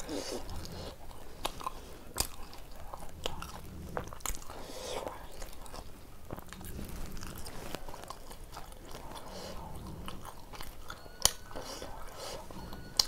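Chewing and biting of tandoori roti with mutton curry eaten by hand, with wet mouth noises and irregular sharp clicks; one louder click comes about eleven seconds in.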